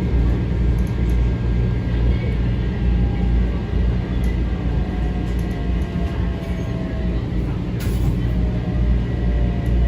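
Steady low hum inside a Metro-North M7 electric railcar, with faint, slowly falling tones drifting above it and a brief click near the end.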